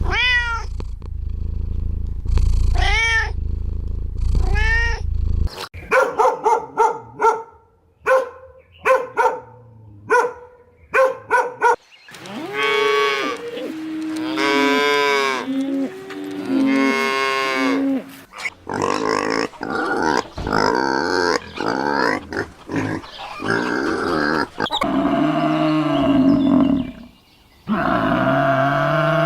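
A series of different farm animals calling one after another, with cattle mooing among them. Short repeated calls give way to long, drawn-out ones.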